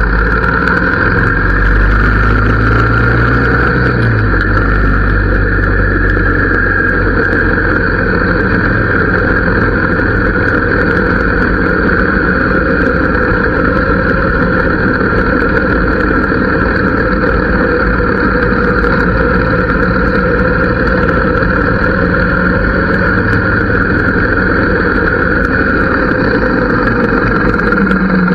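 Harley-Davidson V-twin engine and exhaust running steadily, a loud, even drone with low rumble.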